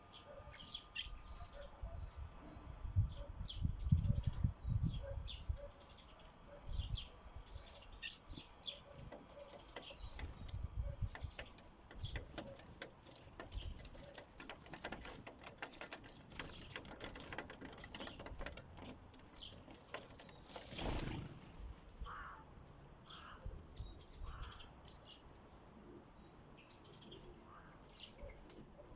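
Sparrows at a feeder: many short high chirps mixed with quick tapping clicks of pecking. There are low thumps in the first few seconds and again around ten seconds in, and a brief rushing sound about two-thirds of the way through.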